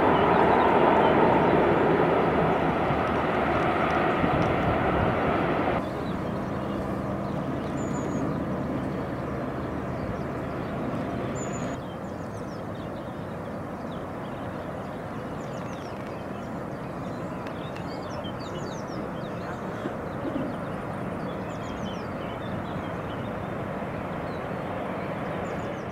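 Distant trains rumbling along the railway far below in the river valley, a steady wash of noise that drops sharply in level about six seconds in and again about twelve seconds in. From about eight seconds on, small birds chirp in short high notes over it.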